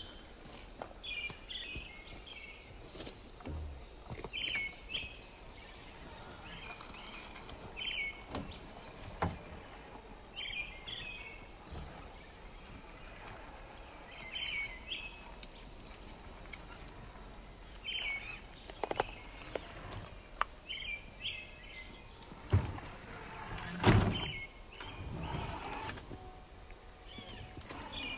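A bird calls over and over, a short chirp every second or two, over the faint whine of the radio-controlled Traxxas TRX-4 '79 Bronco crawler's electric motor and gears as it climbs rocks. Several sharp knocks come in the second half, the loudest about two-thirds of the way in, as the truck's tyres and chassis hit stone.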